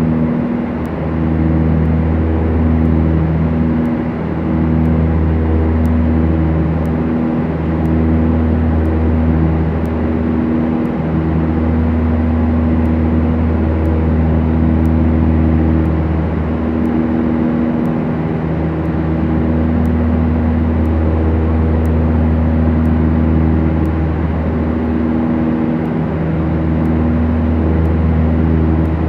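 Beechcraft Duchess twin piston engines and propellers running steadily, a deep even drone that dips and swells every few seconds.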